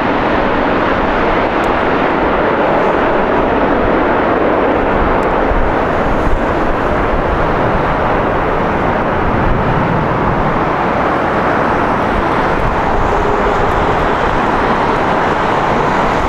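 Jet airliner engines, a loud, steady rushing noise with no clear rise or fall.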